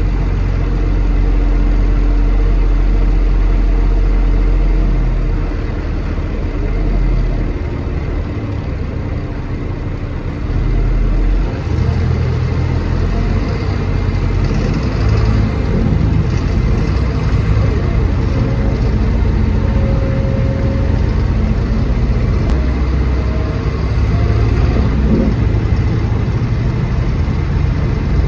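Diesel engine of a service bus under way, working hard and loud. It eases off about six seconds in and picks up again with a surge about eleven and a half seconds in.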